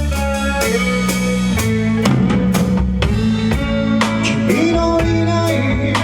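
Live band playing, with a drum kit hitting steadily under held bass and guitar notes.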